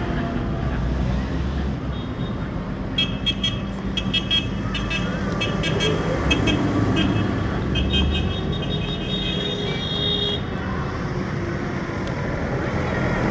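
Tractor engines running steadily, with a run of short, high-pitched toots from about three seconds in until about ten seconds in.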